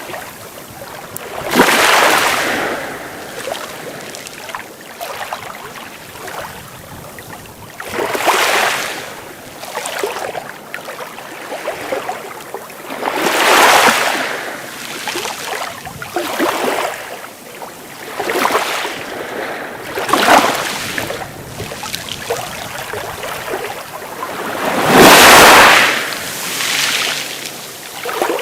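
Sea waves breaking and washing in, a surge of surf hiss every few seconds that swells and falls away, the biggest one near the end.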